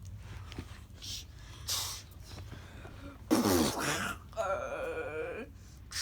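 A child making mouth sound effects for toy play: a short hiss, then a louder rushing sound that falls in pitch, then a held voiced note.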